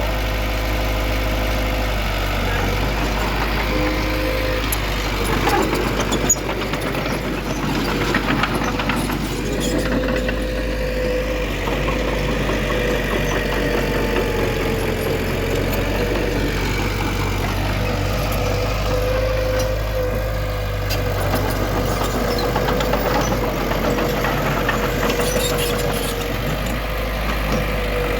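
Heavy diesel earthmoving machinery running steadily, with a deep rumble and a steady whine over it.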